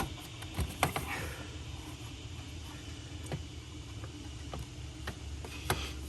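Scattered light clicks and knocks of hands working over the hoses in a truck's engine bay, a few close together at the start and a sharper one near the end, over a low steady hum.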